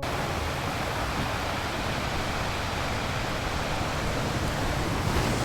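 Steady rushing water, an even hiss without any tone, that starts suddenly as the music cuts off.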